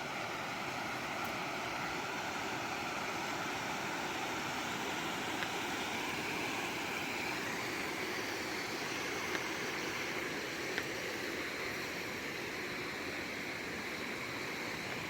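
River water rushing, a steady even noise without a break.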